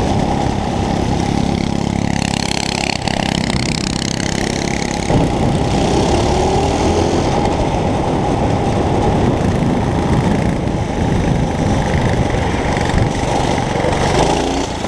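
Mini bike's small engine running continuously, its note shifting about five seconds in.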